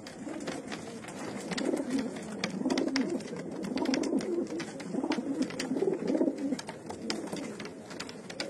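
Racing pigeons cooing in several bouts of low warbling calls, with sharp clicks and taps scattered throughout.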